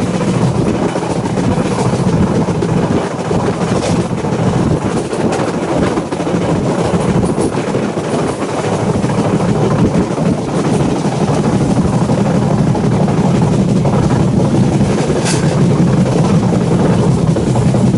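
Indian passenger train running steadily, heard from inside the carriage at the window: a continuous rumble of the wheels on the rails, with a couple of faint clicks.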